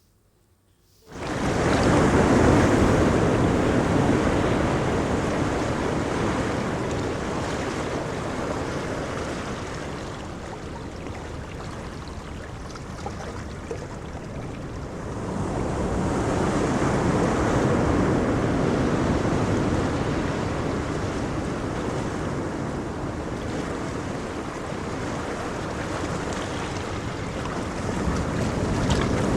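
Surf washing on a beach with wind rumbling on the microphone, starting abruptly about a second in; the noise eases off and swells again about halfway through.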